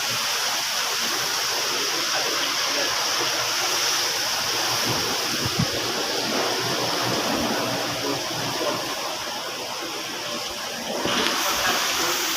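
Heavy rain pouring down, a steady dense hiss of water.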